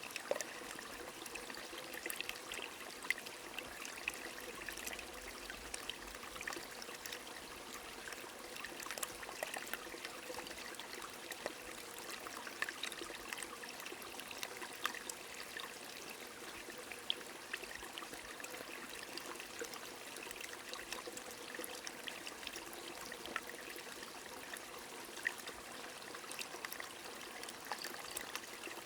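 A small stream trickling and pouring steadily, with light rain whose scattered drops tick sharply throughout.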